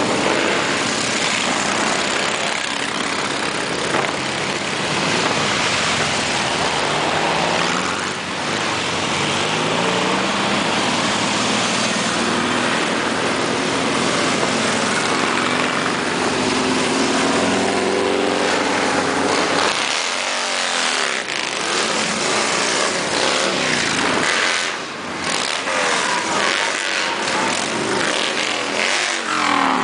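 A long stream of motorcycles riding past, their engines running together one after another, with engine tones rising and falling in pitch as bikes go by.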